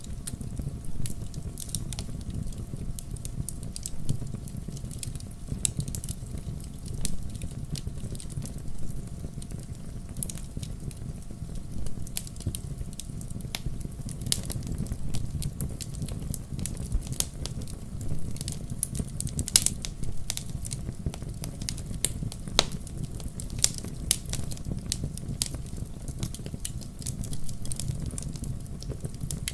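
Wood campfire crackling: a steady low rumble of burning wood with frequent irregular sharp pops and snaps.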